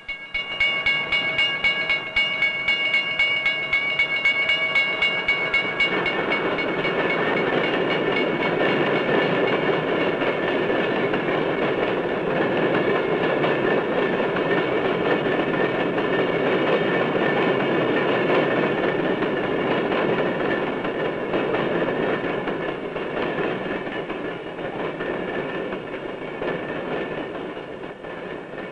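A freight train passing at speed. For about the first six seconds a whistle sounds a steady chord over the fast clatter of the wheels; after that the rumble and clickety-clack of the passing cars carries on, easing off a little near the end.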